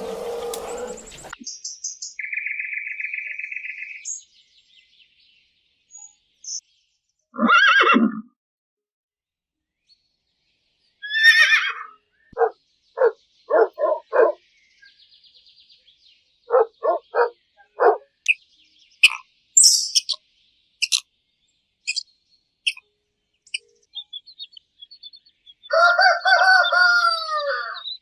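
A succession of short bird and animal calls separated by silent gaps: a brief buzzy trill, single calls, runs of quick pulsed notes, high chirps, and a call that falls in pitch near the end.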